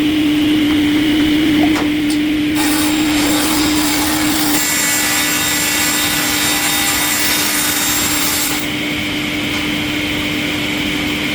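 A wood-processing machine runs with a steady hum. From about two and a half seconds in until nearly nine seconds, a louder hiss rises over it as the machine cuts into wood.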